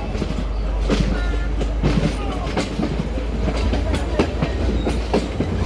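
Passenger train running along the track, its wheels clicking over rail joints about once a second above a steady low rumble.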